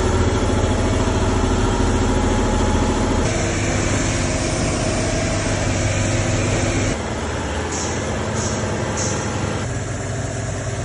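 A steady low mechanical hum, like running engines or machinery, whose character changes abruptly about three and seven seconds in. Three short bursts of hiss come near the end.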